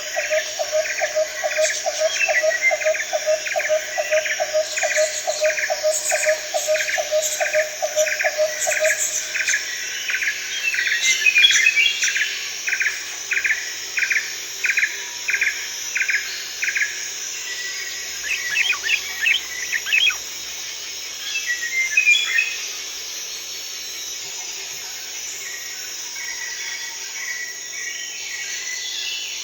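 Tropical forest ambience: a steady high-pitched drone of insects under birds calling. One bird repeats a short note two to three times a second for the first half and more. A lower-pitched call repeats quickly beneath it for the first third. A few brief, separate calls follow in the second half.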